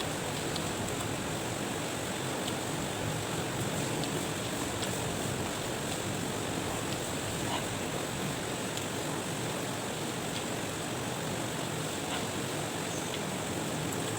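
Steady rushing background noise with a few faint small clicks scattered through it.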